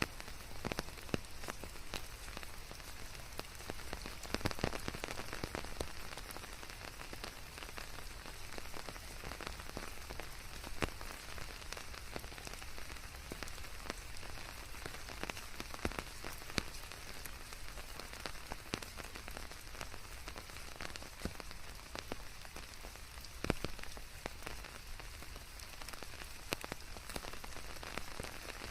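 Steady rain falling, with scattered sharp drops pattering close by over an even hiss of white noise.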